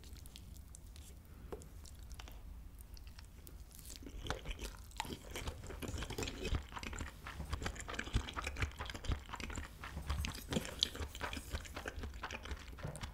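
A person chewing a mouthful of kimchi fried rice with fried egg and cheese, close to the microphone. A quick patter of small mouth clicks picks up about four seconds in.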